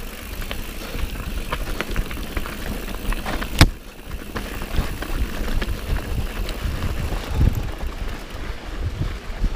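A mountain bike rolling over a rough trail. The tyres rumble and the bike rattles and clicks, with one sharp knock a little over three seconds in, over wind on the microphone.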